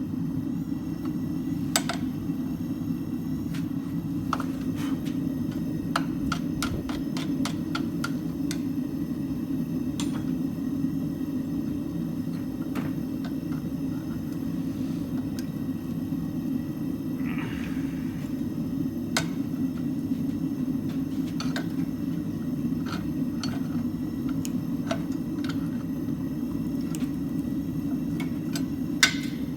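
Steady low roar of a forge running. Over it come scattered light metallic clinks and taps of steel and tools being handled, with a quick run of them several seconds in and a couple of sharper hits near the end.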